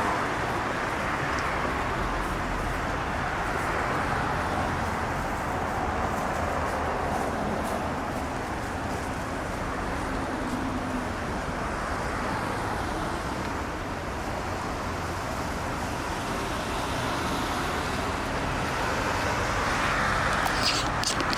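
Steady road traffic noise: a continuous wash of passing cars.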